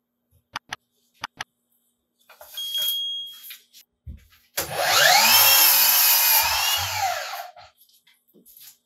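A few sharp clicks, then a short burst of a power saw motor, and about four and a half seconds in a longer run of the saw spinning up and cutting for about three seconds, its pitch rising and then falling as it winds down.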